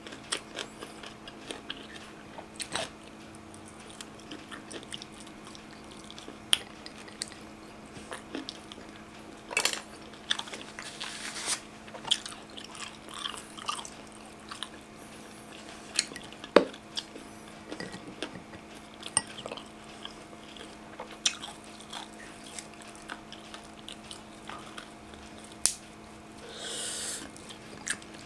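Close-miked chewing and biting of grilled chicken-tail barbecue: wet mouth clicks and smacks at irregular intervals, with a few longer wet crunches. A faint steady hum runs underneath.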